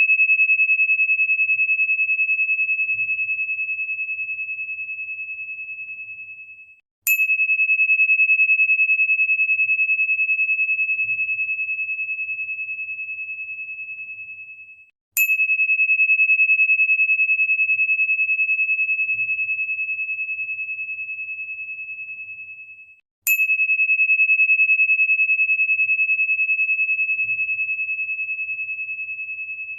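A single high, pure ringing tone, struck again about every eight seconds. Each strike starts with a sharp click, then the tone fades slowly and cuts off just before the next strike, three times in a row.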